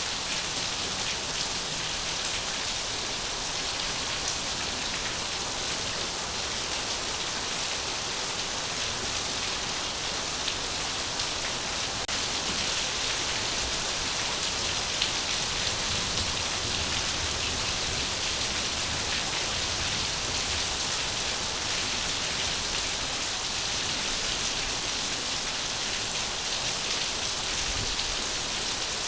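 Steady rain falling on a surface: an even, unbroken hiss with a fine patter of drops.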